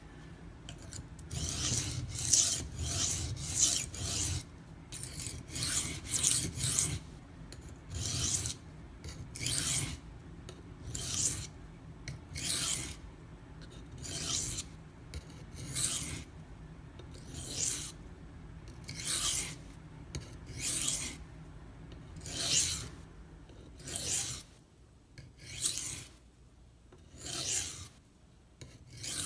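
A stainless kitchen knife blade being stroked across a coarse Norton India sharpening stone, one rasping stroke after another. The first few seconds hold quicker runs of strokes, then they settle to about one every second and a half.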